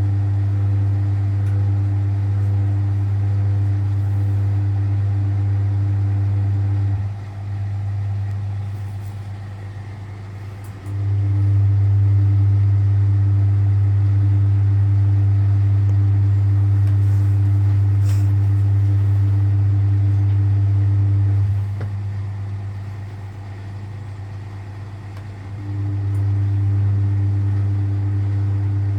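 Vintage Frigidaire Super Deluxe Automatic 50 front-loading washer tumbling its drum with its induction motor, a loud mains-frequency hum. The motor runs for about seven seconds, stops for about four, runs again for about ten, pauses again and starts once more near the end, the on-off pattern of a wash or rinse tumble.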